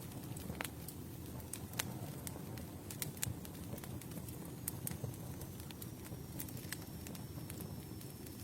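Campfire burning: a steady low rumble of the flames with sharp wood crackles and pops at irregular intervals, a few louder pops about two and three seconds in.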